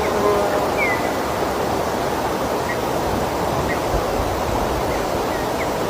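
Steady rushing noise, like running water, with a few faint, brief chirps scattered through it.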